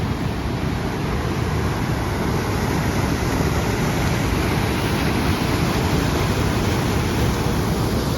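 Floodwater rushing over a dam's overflow in a steady, loud, unbroken roar of water, the overflow described as "just raging" after over 200 mm of rain.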